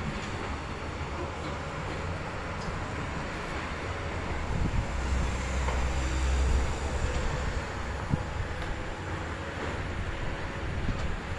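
Low, steady engine rumble of heavy diesel machinery, growing louder about five seconds in and then easing, with a few faint knocks.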